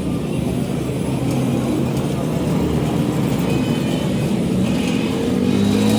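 An engine running steadily, its pitch rising near the end.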